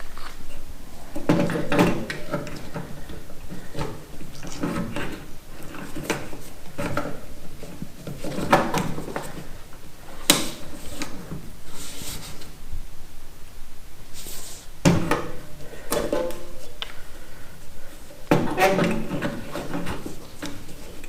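Irregular metal clunks and clatter from body tools working a dented car fender, coming in several clusters of knocks.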